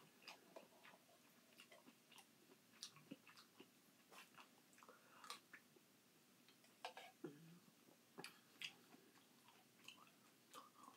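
Faint chewing and mouth noises of someone eating canned crushed pineapple, with scattered light clicks of a spoon against the tin can.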